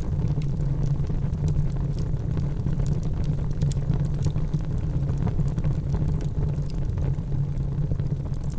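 Wood fire in a fireplace crackling, with frequent small pops and snaps over a steady low rumble of the burning.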